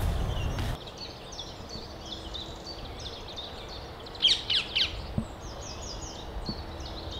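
Songbirds singing: a run of short, high chirping notes repeating throughout, with a louder burst of quick descending notes about four seconds in.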